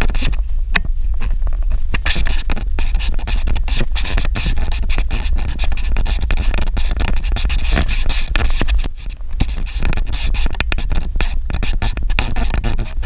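Suzuki Jimny driving on a rough dirt road: a steady low rumble of engine and tyres with a constant run of knocks and rattles from the bumpy track.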